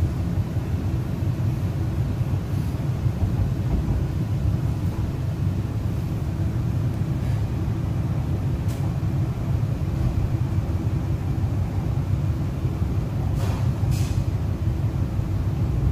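Running noise inside a moving MTR East Rail Line R-Train, a Hyundai Rotem electric train: a steady low rumble of the wheels on the track. A few faint clicks come in the second half, two of them close together near the end.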